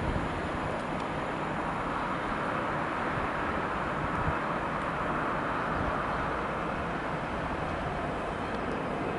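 A double-deck VR InterCity train rolling away along the track, a steady rumble of wheels on rails that swells a little midway.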